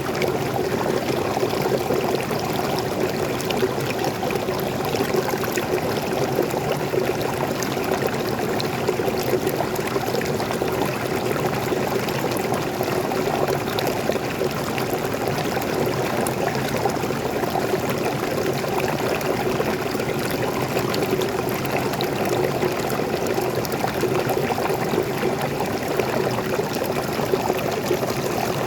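Waterfall and flowing stream water pouring and splashing in a steady, unbroken rush.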